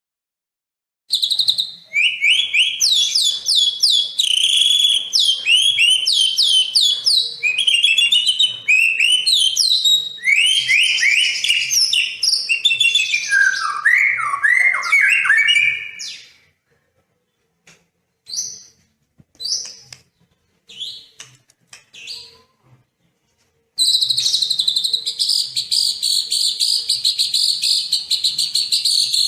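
Songbird song from a bird-training recording. It starts about a second in with a fast run of sweeping, downslurred whistled notes, breaks into a few scattered short notes past the middle, then changes near the end to a continuous rapid, buzzy trill.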